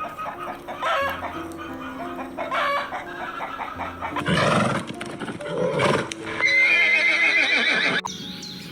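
Several animal calls over soft background music, the loudest a long wavering call near the end that cuts off abruptly.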